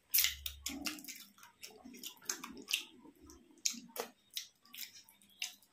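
Close-miked eating: wet chewing, lip smacks and squelchy clicks of a rice and curry meal, coming irregularly several times a second.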